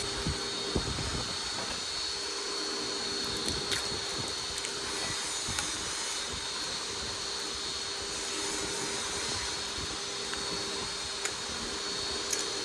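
A steady mechanical hum and hiss, with a few faint clicks scattered through it.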